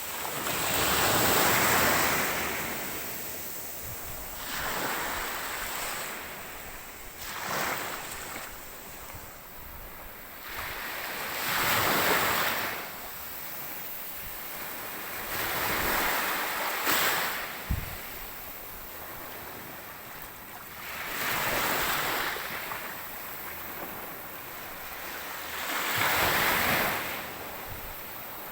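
Ocean waves breaking on a shore, the surf swelling and washing back every few seconds, with one brief knock about eighteen seconds in.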